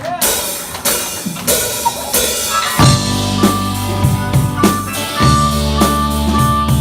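Rock band playing an instrumental passage: the drum kit plays alone for the first few seconds, then bass and guitars come in with a steady, repeating riff.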